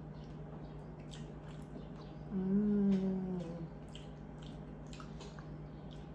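A person chewing a mouthful of soft pasta, with small wet mouth clicks, and a closed-mouth "mmm" hum of about a second and a half starting a little over two seconds in.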